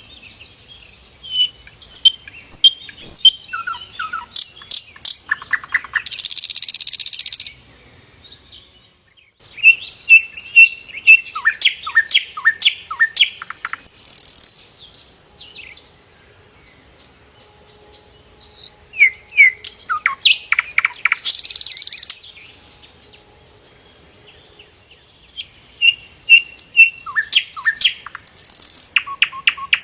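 Sikatan londo flycatcher singing loudly in repeated phrases a few seconds apart. Each phrase runs clear whistles, quick down-slurred notes and a rapid trill, then ends in a harsh buzzy rasp.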